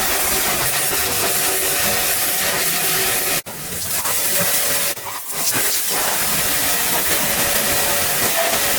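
Steady hissing jet of a car-cleaning spray nozzle with a machine hum under it, cut off sharply about three and a half seconds in and dipping again about five seconds in.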